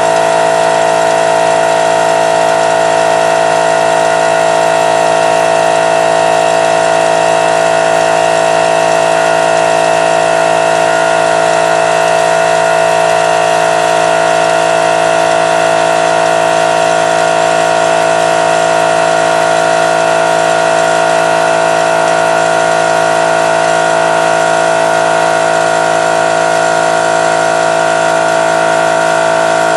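Harbor Freight Central Pneumatic 2-horsepower, 8-gallon oil-lubricated air compressor running steadily, its pump filling the tank and building pressure.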